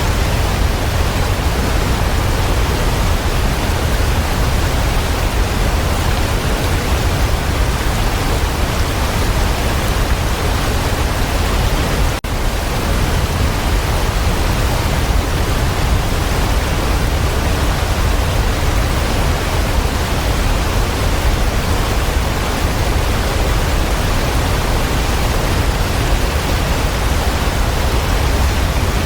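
Waterfall: a steady, dense rush of falling water, strongest in the low range, with a split-second dropout about twelve seconds in.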